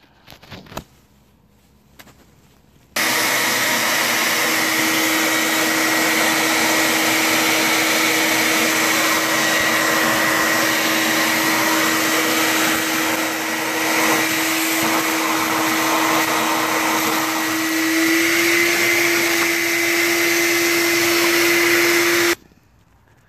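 Vacuum cleaner switched on a few seconds in, running steadily for about twenty seconds while sucking up debris, then switched off abruptly. Its hum rises slightly in pitch near the end.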